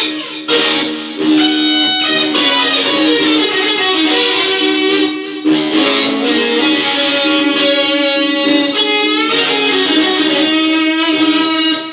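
Electric guitar playing a blues piece: plucked, sustained notes and phrases with short breaks between phrases, including one near the end.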